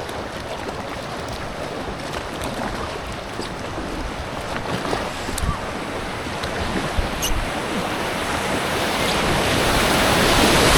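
Whitewater of a mountain creek rushing around an inflatable kayak. The steady rush grows louder toward the end as the boat runs into a rapid.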